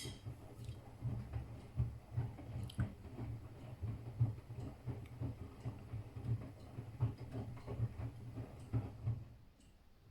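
Miele washing machine drum turning during the wash: a low motor hum with the wet laundry tumbling in irregular thumps and swishes. The drum stops about nine seconds in.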